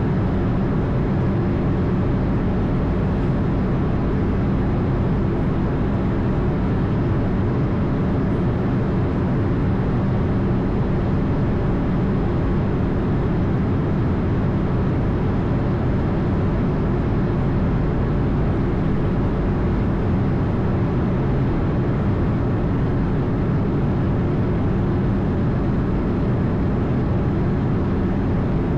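Steady low rumble and rush of an Airbus A220 airliner heard from inside the cockpit: engine and airflow noise, unchanging throughout.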